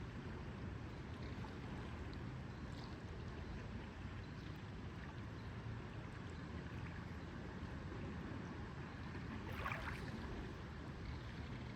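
Lakeside water ambience: a low, steady rumble of water with small faint lapping ticks, and one brief louder splash or slap of water about ten seconds in.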